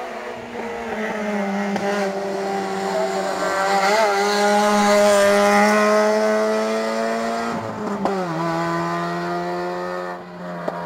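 Rally car engine pulling hard along the stage, its pitch climbing slowly and growing louder toward the middle. About eight seconds in the pitch drops sharply, an upshift, and then climbs again.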